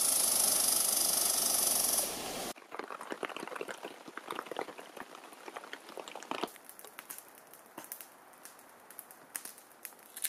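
Rain: a steady, loud hiss of falling rain, which cuts off about two and a half seconds in to a quieter patter of scattered single drops ticking.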